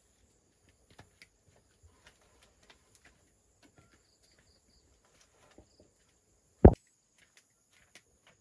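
Scattered light taps and knocks of objects being handled, with one heavy thump about two-thirds of the way through. Faint high chirps of a bird or insect can be heard in the background.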